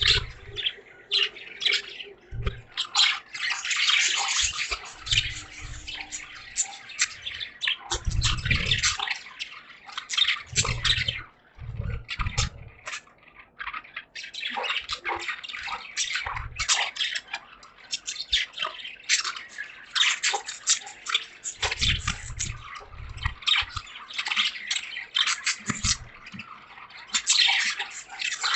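A flock of caged budgies chirping and chattering in dense, quick bursts, with water dripping and splashing and irregular low thumps underneath.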